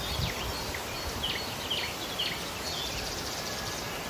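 Rainforest ambience: a steady rushing hiss with a bird repeating short downward-sliding chirps, about two a second.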